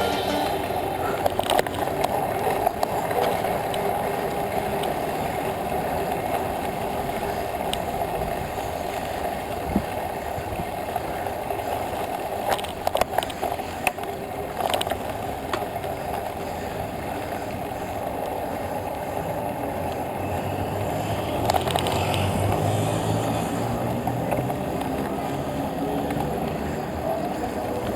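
Steady wind and road noise from a bicycle ride, with scattered short clicks and rattles. Near the end a low rumble swells for a few seconds.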